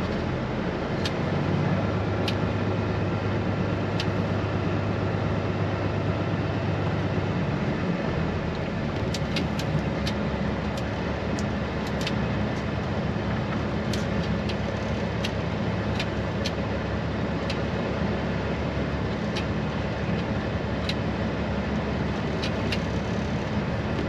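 Straight-piped Peterbilt 389 semi truck's diesel engine running steadily, its low note changing about eight seconds in, with scattered sharp clicks over it.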